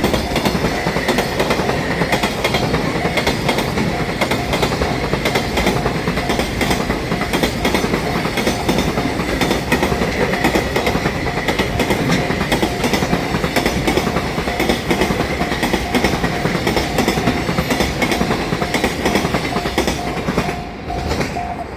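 Freight train rolling past, its wagon wheels clattering over the rail joints. The loudness drops a little near the end as the train goes by.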